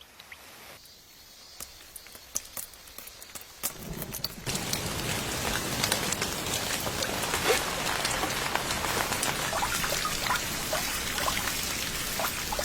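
Rain falling, with many individual drops striking a surface over a steady hiss. It starts light and grows heavier in steps over the first few seconds, then holds steady.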